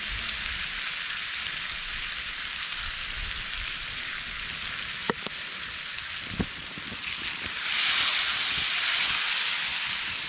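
Steaks sizzling in a pan over a campfire, the pan a little too hot for them. There are two sharp clicks in the middle, and the sizzle swells louder for a couple of seconds near the end.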